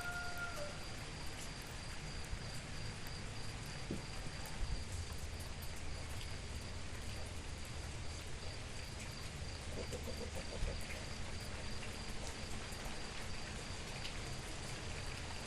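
Steady rain falling, an even hiss with scattered faint drop ticks, over a thin high steady tone.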